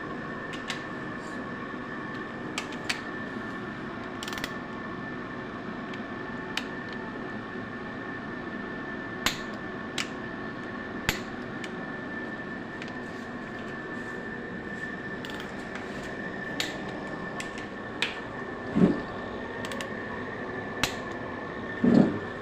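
Hand tools tapping and clinking on metal engine parts during assembly, about a dozen scattered strikes over a steady mechanical hum with a constant whine in it. Two heavier knocks come near the end.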